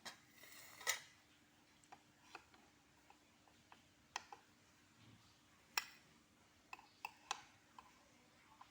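Scattered light taps and clinks of kitchen utensils and dishes being handled, about ten irregular knocks with the loudest about a second in.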